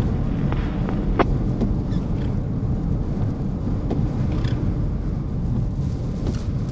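Steady low rumble of a vehicle driving, road and wind noise, with a few faint brief clicks.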